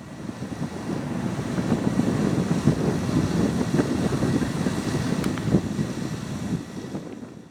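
An aircraft flying past: a rough, crackling noise with no clear pitch that swells over the first couple of seconds and fades near the end.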